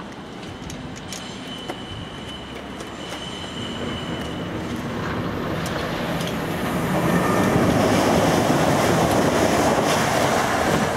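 A train running over the rails. A thin, steady wheel squeal and a few sharp clicks come in the first few seconds, then the rumble of wheels on track grows louder and is at its loudest in the second half.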